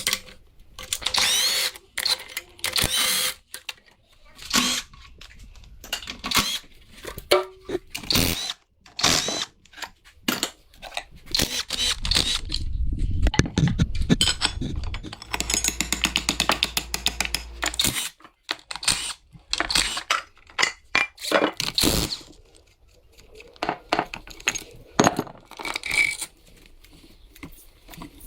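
Workshop work on a car: short bursts of a power tool running with a wavering whine, a rapid rattling run about halfway through, and many sharp knocks and clatters of tools and metal parts between them.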